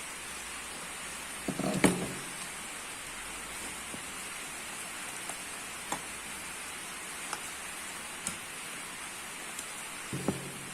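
Steady hiss of falling rain, with scattered light clicks and two louder clusters of knocks, one about two seconds in and one near the end.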